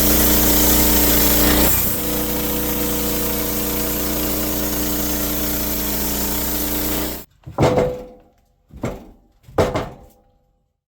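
A small engine runs steadily, a little louder for the first two seconds, then cuts off abruptly about seven seconds in. Three short ringing sounds follow about a second apart.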